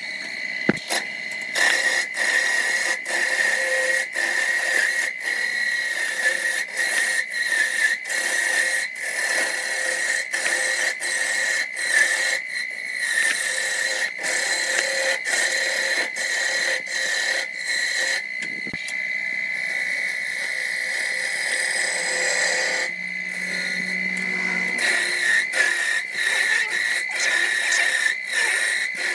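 Electric power tool running with a steady high whine, chopped by frequent short breaks.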